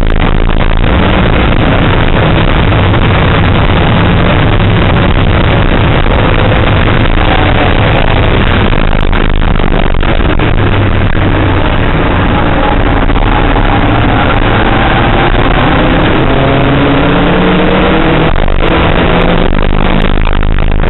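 Car engine heard from inside the cabin at full throttle on a race track, revs climbing steadily through the gears and dropping back at a gear change near the end.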